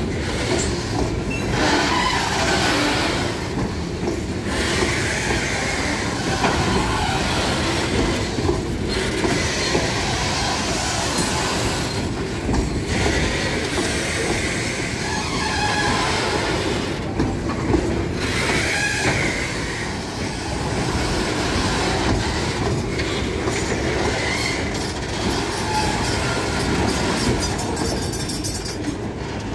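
Loaded covered hopper cars of a freight train rolling past at close range: a steady rumble and clatter of steel wheels on the rails, with brief high squeals now and then.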